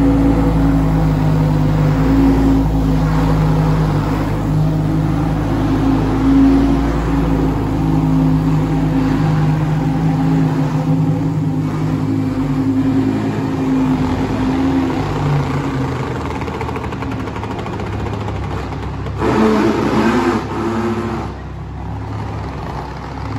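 Lamborghini Huracán Performante's 5.2-litre naturally aspirated V10 running steadily at idle. A short, louder burst comes about 19 seconds in.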